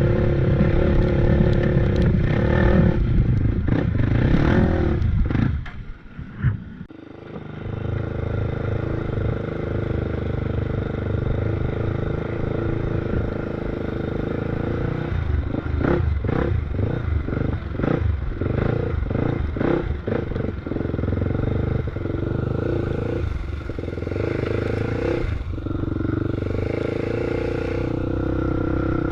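Off-road motorbike engine running under load on a trail. About six seconds in it drops off sharply for a moment, then picks back up. In the middle it pulses rhythmically, a few times a second, for several seconds.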